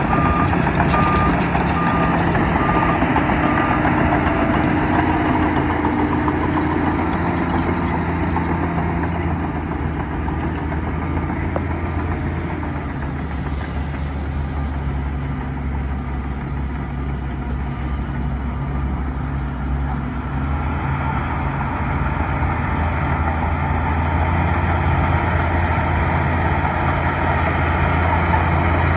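Bulldozer's diesel engine running steadily, with a reversing alarm beeping for the first few seconds. The engine eases off in the middle and picks up again near the end.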